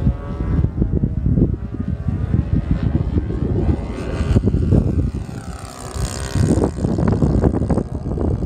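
Cessna 182's six-cylinder piston engine and propeller running steadily, with heavy wind buffeting on the microphone.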